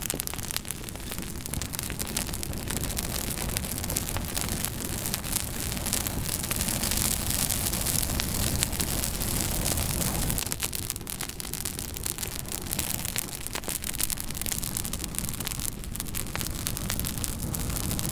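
Wood fire burning in a fireplace, a steady hiss and rumble with frequent crackles and pops, the hiss swelling for a few seconds midway.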